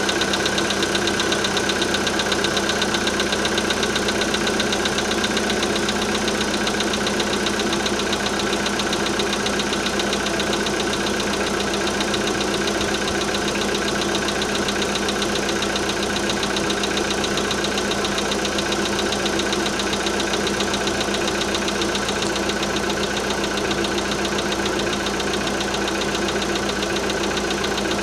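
Volkswagen Polo Sedan engine running steadily with a fast, even knocking in it: the engine knock the owner is recording.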